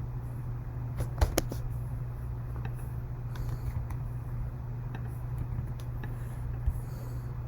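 Small plastic LEGO pieces clicking and tapping as they are handled and pressed into place: a quick cluster of sharp clicks about a second in, scattered lighter clicks after, and a low knock near the end, over a steady low background hum.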